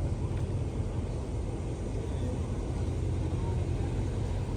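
Steady low rumble of an idling engine, with no sudden sounds.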